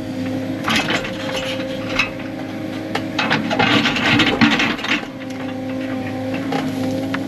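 Kubota KX080-4 excavator's diesel engine running steadily while the machine tears through brush, with crackling, snapping and scraping of branches and rock about a second in and again, louder, from about three to five seconds in.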